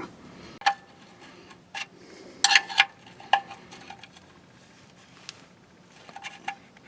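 A wrench or ratchet tightening the oil drain plug into the aluminum oil pan, giving a few scattered metallic clicks and clinks with the most in a cluster about two and a half seconds in.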